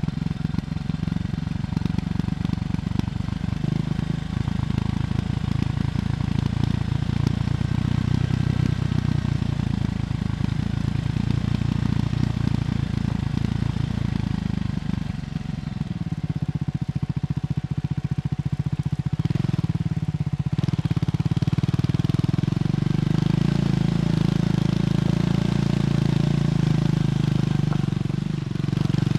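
Triumph Scrambler 400X's single-cylinder engine running through its stock exhaust while riding. The note eases off and wavers about halfway through, then picks up and holds steady again.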